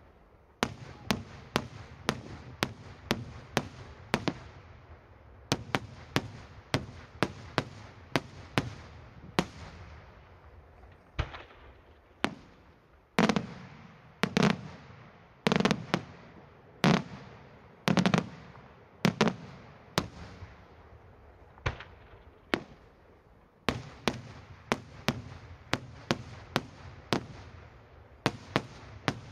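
Daytime aerial fireworks: shells bursting overhead as sharp bangs, often two or three a second, in runs broken by short pauses. About halfway through comes a run of heavier, louder booms that ring on.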